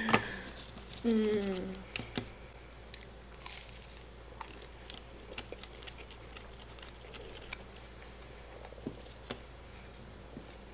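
Close-miked eating of a McDonald's chicken nugget: chewing with scattered small wet clicks. A sharp click at the start, and a short voiced sound falling in pitch about a second in.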